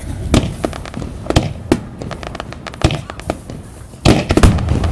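Fireworks exploding: irregular sharp bangs and pops over a deep rumble, with a loud cluster of bursts about four seconds in.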